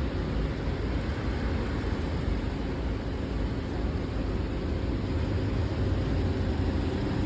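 Steady rushing noise of wind on the microphone and passing street traffic while riding a bicycle, heaviest in the low end.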